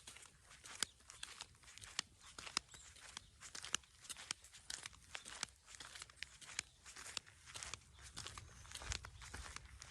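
Faint, irregular crunching and crackling of footsteps on dry ground, several sharp crackles a second.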